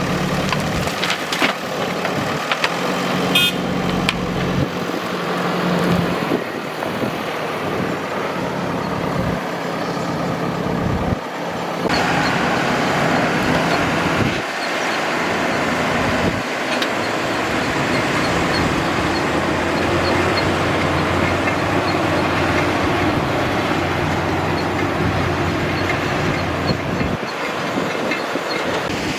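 Diesel engine of a JCB 3DX backhoe loader running and working, a steady heavy-machinery drone that grows fuller about 12 seconds in.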